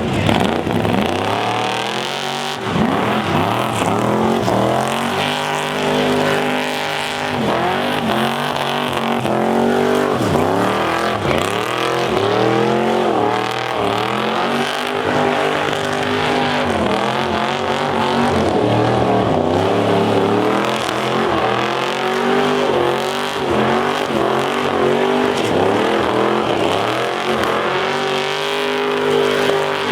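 Car engine revving hard during a burnout, its pitch climbing and dropping again and again, over a constant screech of spinning tyres.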